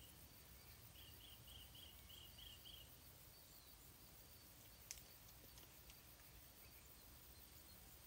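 Faint background hiss in which a bird calls a quick run of six short, high, evenly spaced notes about a second in, with fainter high chirps at times. A single sharp click sounds near the middle.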